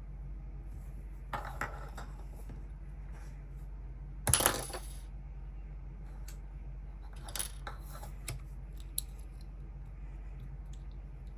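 LEGO pieces clattering and clicking against each other and a hard surface: a few light knocks, with the loudest rattle about four seconds in. A steady low hum runs underneath.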